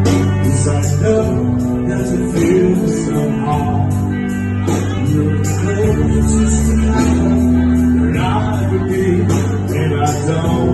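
Music from subway performers: singing over guitar and a steady bass line, with a jingling percussion beat like a tambourine.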